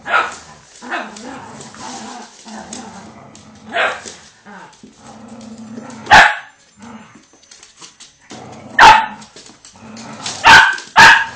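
Dogs barking in play over a rope tug toy: about six sharp barks, with two in quick succession near the end, and a low steady sound between them.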